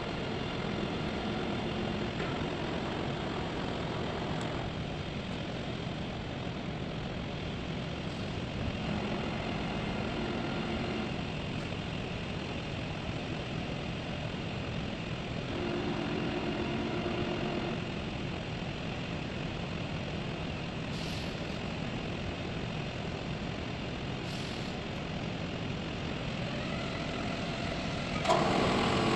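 Steady machine noise with faint tones that rise and fade at times, getting suddenly louder near the end.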